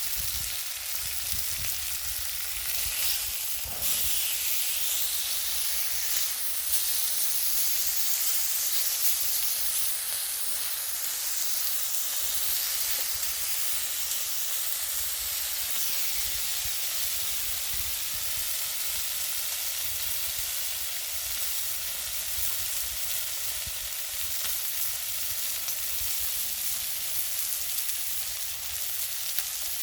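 Food sizzling on a grill net over a wood fire: a steady high hiss, a little louder for several seconds after about four seconds in.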